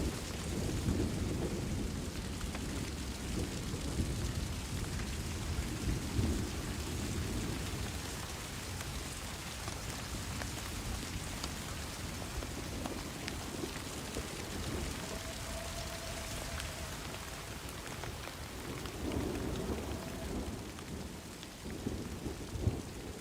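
Steady rain falling on a forest, with low rolls of thunder swelling in near the start and again near the end.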